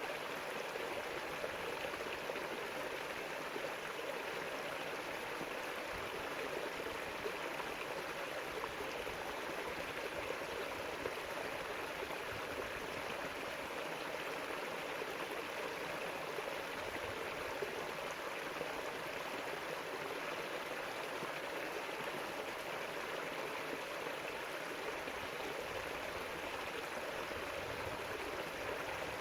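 River water flowing and babbling over rocks in a steady, unbroken rush.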